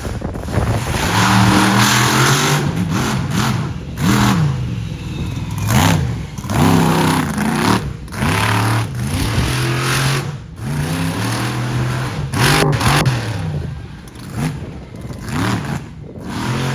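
Monster truck engine revving hard, its pitch rising and falling again and again, with a few sharp bangs in between.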